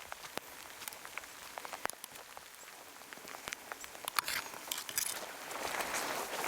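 Heavy rain: an even hiss with many sharp, irregular drop ticks close to the microphone, and a louder rustling passage from about four seconds in.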